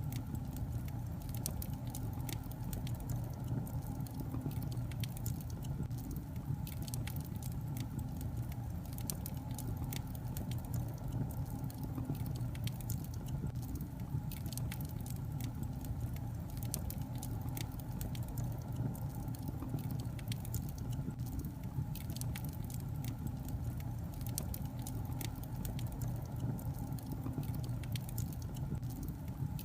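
Wood fire in a fireplace crackling, with many small, irregular pops and snaps over a steady low rumble of the burning logs.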